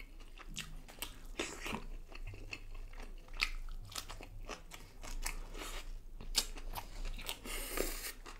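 Close-miked eating: biting into and chewing a mouthful of fish with shredded red onion salad, many short wet crunches and mouth clicks, with a denser crunching spell near the end.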